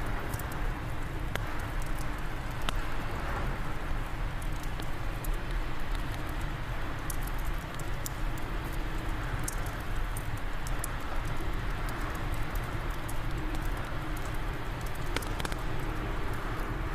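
Steady wind blowing with a low rumble, over a wood fire crackling with scattered sharp pops.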